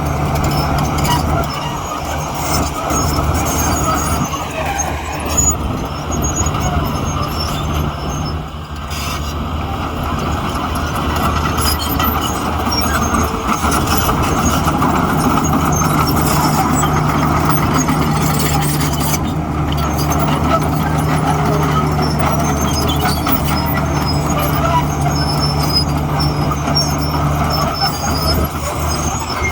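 Heavy diesel engine of earthmoving machinery running steadily under load, with a brief drop in loudness about eight or nine seconds in.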